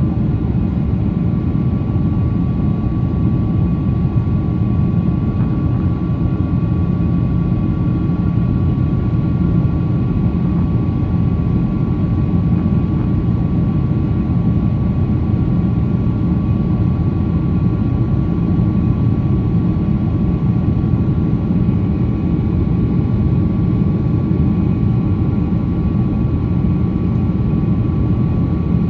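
Cabin noise of a Boeing 777-300 with Rolls-Royce Trent 800 engines: a steady, loud engine and airflow rumble with a thin, steady high whine above it.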